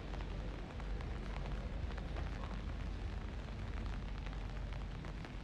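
Rain falling, heard as a steady hiss scattered with many small drop ticks over a low steady rumble.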